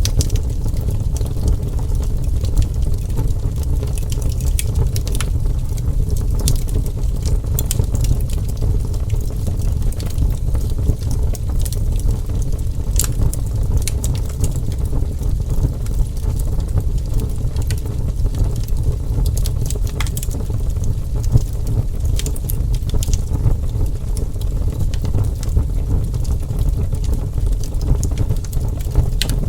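Wood fire burning: a steady low roar with frequent sharp crackles and pops scattered throughout.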